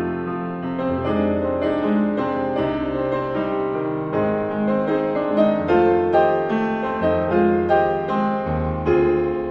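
Background piano music: a calm melody of evenly paced notes over sustained low bass notes.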